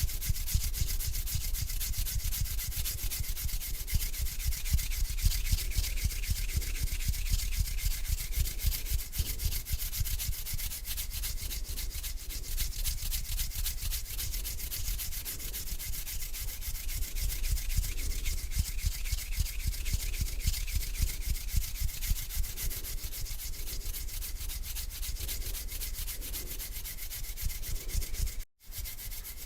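Bare hands rubbing together close to the microphone in a continuous run of dry, rapid rubbing strokes. The sound drops out briefly about a second before the end.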